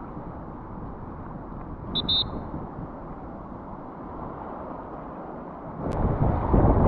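Steady rush of river water with wind buffeting the microphone, growing markedly louder near the end. A brief high double chirp sounds about two seconds in.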